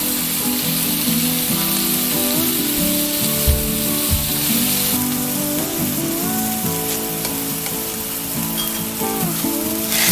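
Chicken breast slices frying with chopped onion and garlic in a nonstick pan, a steady sizzle that is louder in the first half, while wooden chopsticks stir and turn the meat.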